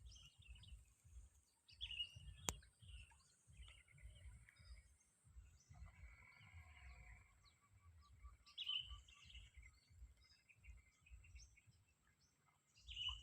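Faint scattered chirps of small birds over a low, irregular rumble on the microphone, with one sharp click about two and a half seconds in.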